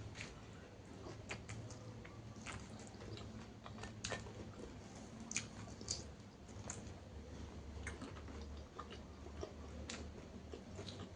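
A person chewing and biting food close to the microphone: irregular crisp clicks and wet crunches, several a second.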